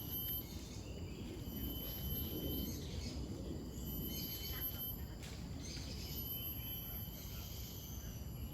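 Forest ambience: birds chirping and a steady high insect tone that stops and starts, over a low rumble.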